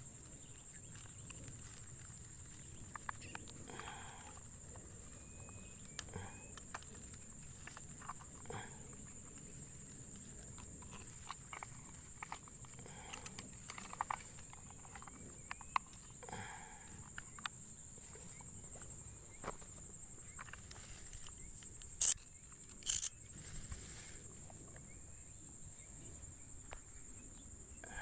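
A steady high-pitched insect drone, typical of crickets or cicadas, with scattered small clicks and knocks. Two sharper, louder clicks come about three-quarters of the way through.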